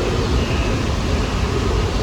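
New York City subway train running through the station, a loud, steady noise of the train's wheels and running gear on the rails.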